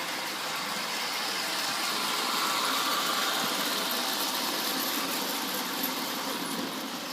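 Ives Standard Gauge toy freight train running on its track, a steady mechanical rumble of motor and wheels that grows louder about two seconds in and eases off after about four seconds.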